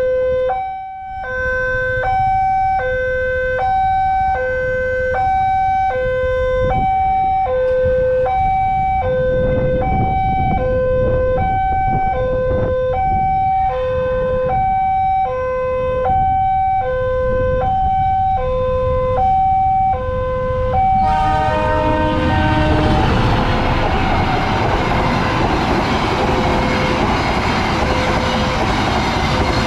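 Two-tone electronic warning alarm of a railway level crossing, alternating between a low and a higher note about every 0.7 seconds. About 21 seconds in the alarm stops and a loud, steady rumble and rush of a passing train takes over.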